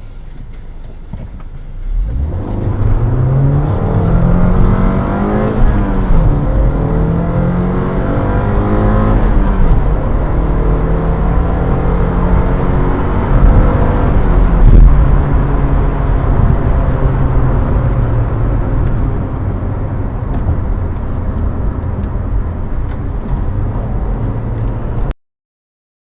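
Alfa Romeo 159 2.2 JTS four-cylinder petrol engine idling, then pulling hard from about two seconds in under full-throttle acceleration. Its pitch climbs through the gears and falls back at the manual gear changes about five and a half and nine and a half seconds in. After that it runs steadier with tyre and road noise, and the sound cuts off abruptly near the end.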